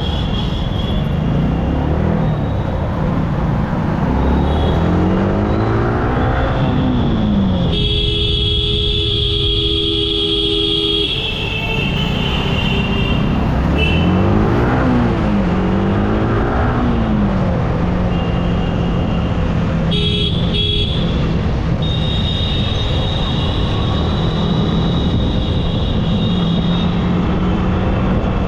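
Motorcycle engine, a Yamaha R15's single cylinder, rising and falling in pitch as it accelerates and shifts through traffic, then holding a steady cruise, with wind noise on the microphone. A vehicle horn sounds for about three seconds about a third of the way in.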